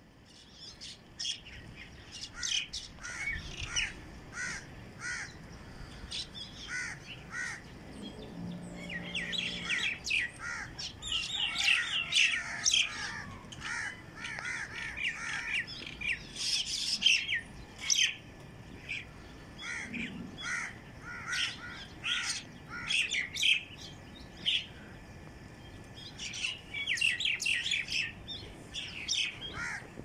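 Small flock of birds chirping and calling at scattered food, with many short, overlapping calls that grow busiest in the middle.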